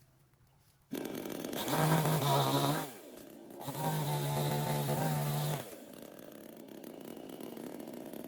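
Chainsaw coming in suddenly about a second in, revved up twice with a falling drop in pitch between the two, then running slower and quieter at idle.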